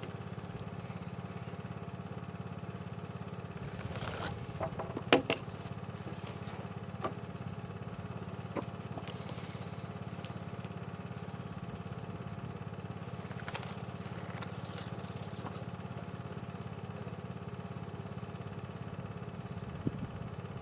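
Small engine running steadily at a constant speed. A few sharp knocks come about four to five seconds in, the loudest just after five seconds.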